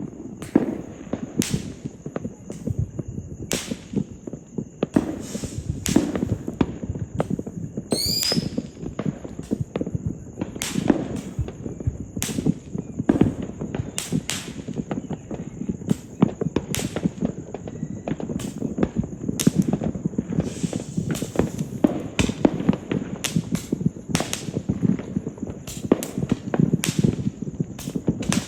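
Aerial fireworks going off in quick succession: repeated sharp bangs over continuous crackling, with a rising whistle about eight seconds in.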